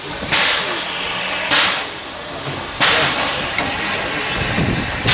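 Steam locomotive exhausting in slow, evenly spaced chuffs about a second and a quarter apart, three in a row, then a pause and a fourth at the end, over a steady hiss of steam.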